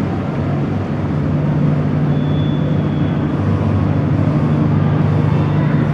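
Double-deck passenger ferry's diesel engines running steadily, a loud low drone that builds a little over the first couple of seconds as the ferry gets under way.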